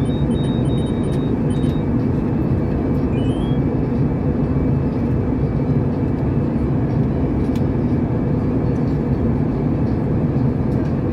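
Steady cabin noise inside a passenger airliner in flight: a constant low rumble of engines and airflow. A few faint, short high beeps sound in the first couple of seconds and again about three seconds in.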